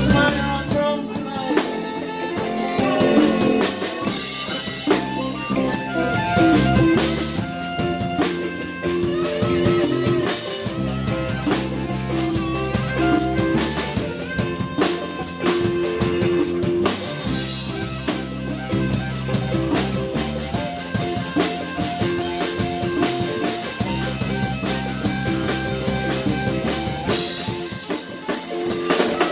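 Live band music without vocals: drum kit keeping the beat under guitar and bass.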